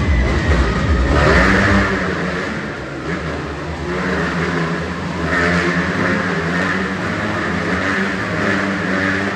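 Motocross bike engines revving as they circle inside a globe of death, their pitch surging and falling in waves, with a heavy low rumble for the first couple of seconds.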